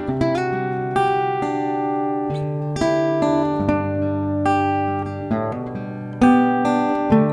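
Acoustic guitar music: plucked notes, a new one about every second, ringing over steady low bass notes.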